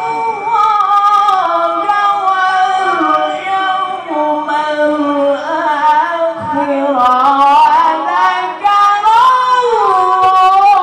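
A male Qur'an reciter's high voice in melodic tilawah, drawing out long ornamented notes that glide up and down with hardly a pause.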